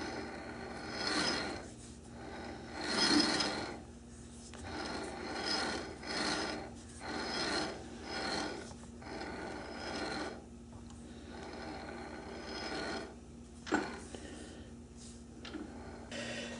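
Four-jaw chuck on a South Bend lathe worked by hand while the work is indicated in: repeated rubbing, ratcheting mechanical swells about once a second, with a sharp click near the end.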